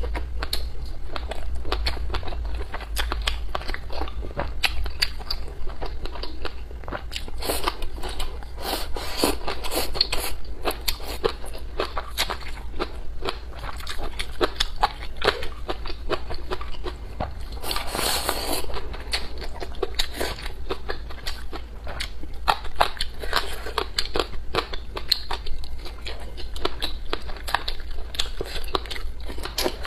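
Close-up eating sounds: steady chewing with quick clicking mouth noises as braised pork and sausage are eaten. A brief louder rush of noise comes about eighteen seconds in.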